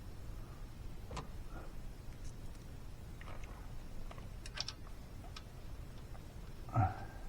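Scattered light clicks and taps of hand tools and parts being handled, with one louder knock near the end.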